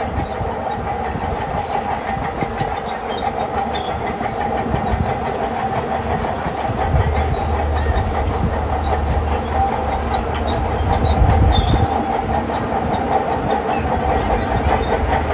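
Shantui crawler bulldozer working: diesel engine running with the steady clatter of its steel tracks. The low engine rumble grows heavier about halfway through, as if under load, then eases back near the end.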